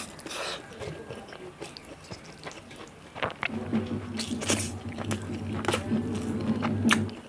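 Close-miked eating: a person chewing with several sharp crisp crunches spaced about a second apart, from biting into crunchy food. A steady low hum joins about halfway through.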